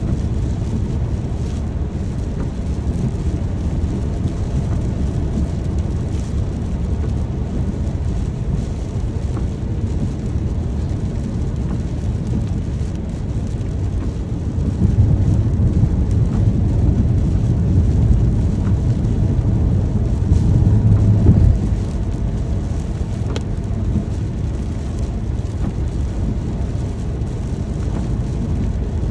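Rain ambience: a steady, deep rushing noise with a low rumble that swells louder for about seven seconds midway through, then settles back.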